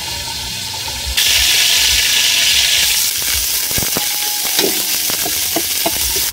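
Kroeung spice paste frying in hot oil in an aluminium pot: a loud sizzle starts suddenly about a second in and keeps going. From about halfway, the metal ladle scrapes and clicks against the pot as the paste is stirred.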